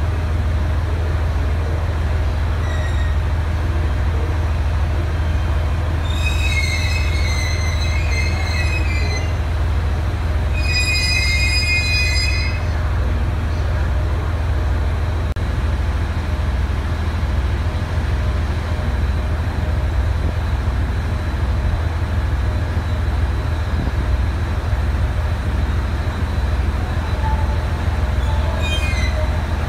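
JR East HB-E210 series hybrid diesel-electric train creeping into a platform, with a steady low rumble and two spells of high wheel and brake squeal about six and ten seconds in, and a brief squeal near the end.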